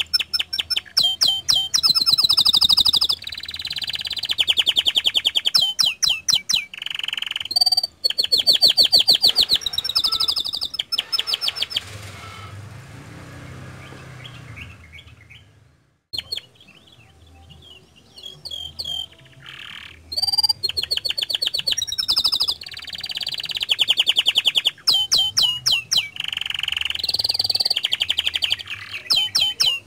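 Domestic canary in full song, pouring out fast trills and rolls one after another. The song drops to a quieter stretch in the middle, breaks off briefly, then comes back loud.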